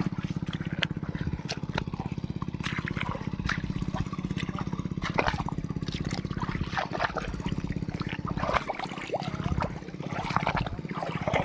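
John Deere 5050D tractor's three-cylinder diesel engine running steadily, with wet sloshing and splashing of mud and water around it.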